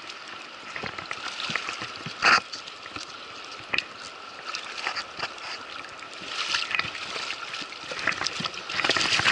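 River water running, with irregular splashes and sloshes from a hooked trout fighting at the surface; one sharp splash stands out about two seconds in.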